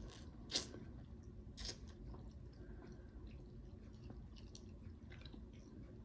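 A person chewing soft cooked fish and plantains with the mouth close to the microphone, faint and wet, with a few sharp mouth clicks and smacks, the loudest about half a second in and another near 1.7 seconds.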